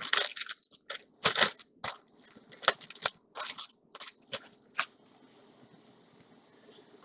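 Packaging being unwrapped by hand: irregular crinkling and tearing, stopping about five seconds in.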